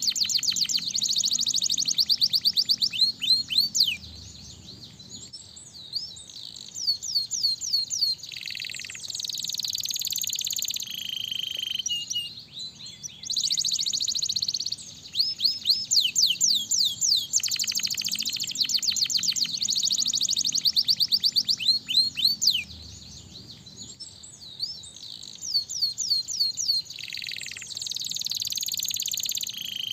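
Domestic canary singing: fast trills and rolls of rapidly repeated high notes in phrases of a few seconds, with short pauses between them.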